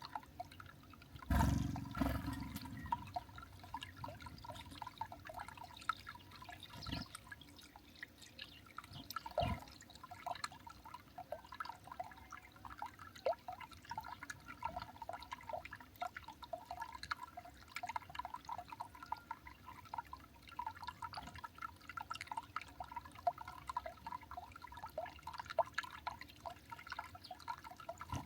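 Small garden birds at a feeder: a steady patter of short ticks and chirps, with a loud thump about a second in, another just after, and two fainter knocks later.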